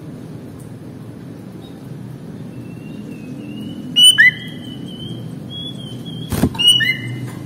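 Sooty-headed bulbul (kutilang) calling: short, clear whistled notes about four seconds in and again near the end, with a thinner wavering whistle between them. A sharp knock comes just before the last call, over a steady low rumble.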